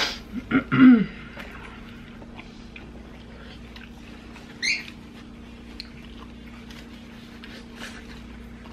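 Chewing and mouth sounds of two people eating taco pizza and fried chicken, with faint clicks over a steady low hum. There are a few short pitched sounds that rise and fall within the first second, and one brief high squeak about five seconds in.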